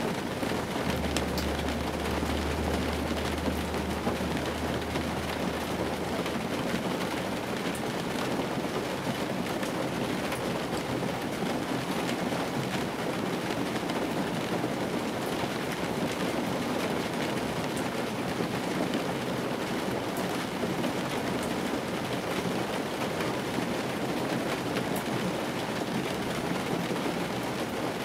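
Steady rain falling on the roof and windshield of an old car, heard from inside the cabin. A faint low hum runs under it for a few seconds near the start.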